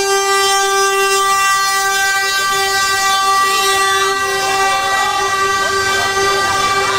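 Truck air horn held in one long, steady blast on a single note that cuts off near the end.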